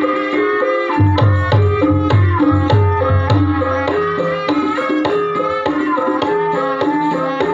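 Javanese gamelan music for an ebeg dance: pitched metallophones play a steady melody over kendang hand-drumming, with a run of deep drum strokes from about a second in until past the midpoint.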